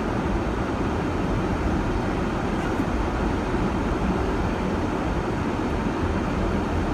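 Steady running noise of a 4x4 driving along a rutted dirt track, heard from inside its cabin: an even engine and drivetrain rumble.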